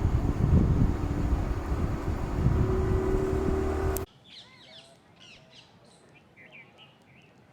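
Loud low rumbling noise, with a steady hum in it, that cuts off abruptly about four seconds in. Faint chirps and short gliding calls of birds follow.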